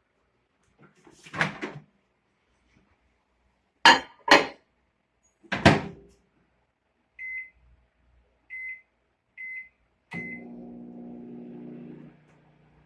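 Microwave oven being loaded and started: a clatter and three sharp clacks as the door is handled and shut, then four short keypad beeps about a second apart. The oven then starts running with a steady hum, which drops quieter about two seconds after it starts.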